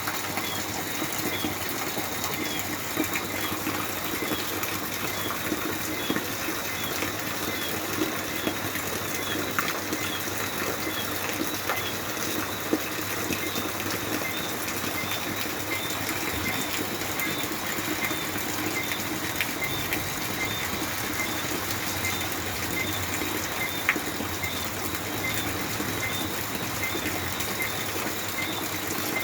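Steady rain falling at night, with crickets chirping in a regular repeating rhythm over it and an occasional sharp drip or tap.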